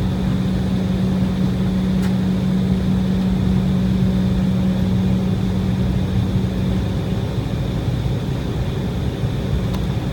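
Steady cabin noise inside an Embraer E190 after landing, its GE CF34 turbofan engines running at idle with a constant low hum. A faint click about two seconds in.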